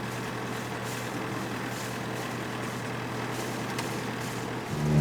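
Boat engine running steadily, a constant low hum under an even wash of noise. Near the end a louder sound rising in pitch sets in.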